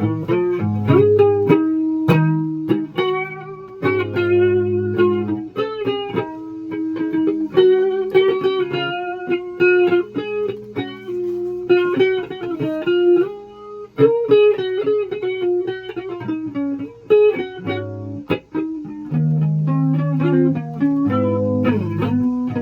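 Electric guitar being played: a quick run of plucked single notes and short chords over low held notes, with no break in the playing.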